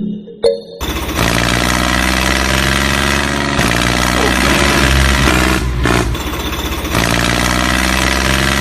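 Tractor engine running steadily. It comes in suddenly about a second in and briefly drops out twice.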